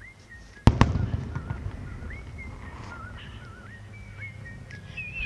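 Fireworks bursting: two sharp bangs close together about a second in, followed by a low crackling rumble that slowly fades.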